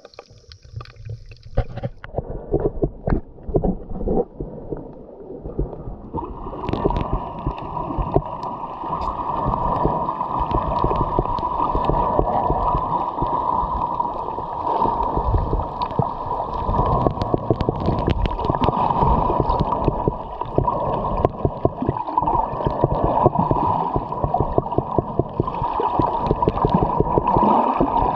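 Underwater sound picked up by a GoPro in its housing during a scuba dive: gurgling water and crackling bubble noise. It grows louder and denser about six seconds in, with a faint steady whine running through it.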